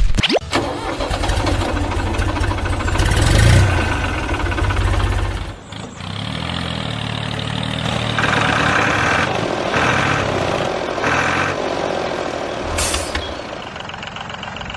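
An engine running, with a heavy, fast-pulsing rumble that drops away about five and a half seconds in. Lighter running follows, with a few repeated higher-pitched bursts.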